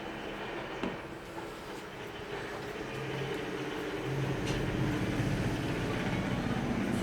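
A steady engine-like hum that grows louder over the second half, with a few faint clicks.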